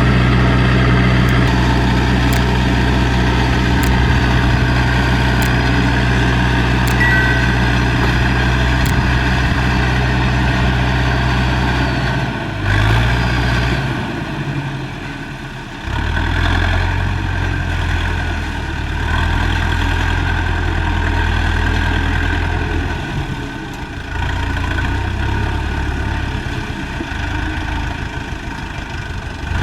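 Diesel engine of a modified Landini tractor working as a dozer, running steadily. About halfway through its note shifts and eases off for a couple of seconds, then picks up again.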